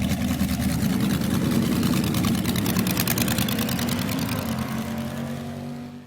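Vintage drag car engine running at a steady speed with a fast, even exhaust beat. It eases off slightly near the end, then cuts off abruptly.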